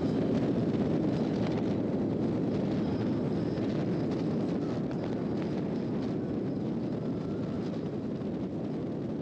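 Harley-Davidson Road Glide motorcycle under way: a steady rush of wind and road noise on the microphone that eases slightly toward the end.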